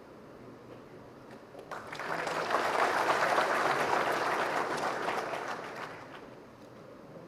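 Audience clapping, starting about two seconds in, holding for a few seconds and then dying away.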